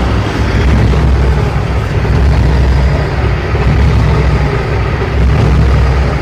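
Cummins ISX inline-six diesel idling roughly, its loudness rising and dipping unevenly. The rough idle comes from air getting into the fuel system through a diesel lift pump mounting plate warped by heat.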